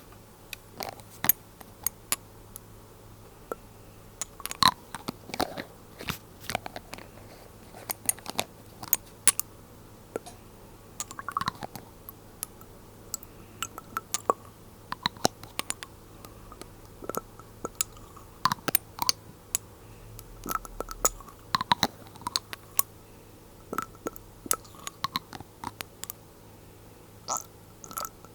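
Glass dropper bottles handled close to the microphone: many irregular sharp taps and clicks of glass, some with a short ring.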